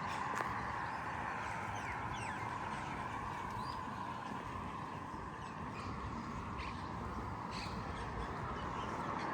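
Street ambience with small birds chirping in short calls over a steady, wavering background hum, and a few faint clicks.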